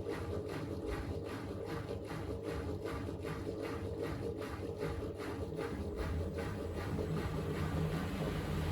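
Miele W3985 front-loading washing machine in a spin burst after draining the final rinse: the drum turns with a regular swishing beat about three times a second, then from about six seconds in the motor hum grows louder and steadier as the drum picks up speed.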